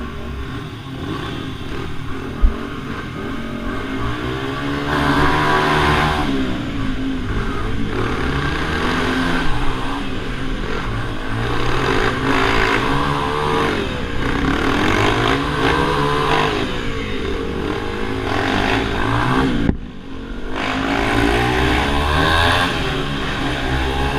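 Minibike engines racing round a track, revving up and easing off again and again as they pass. The sound briefly cuts out for a moment about two-thirds of the way through.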